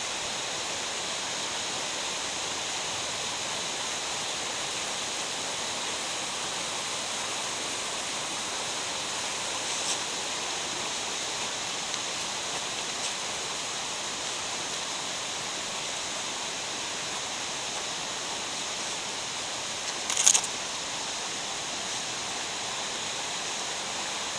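Steady rushing of flowing water in a mountain gorge. About twenty seconds in, a short sharp noise, the loudest moment, cuts briefly across it, with fainter small ticks around ten and thirteen seconds.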